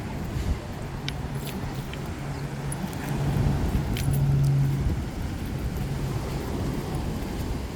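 Motor vehicle engine running, a steady low hum that swells about three to five seconds in, over a rumble of outdoor noise and a few faint clicks.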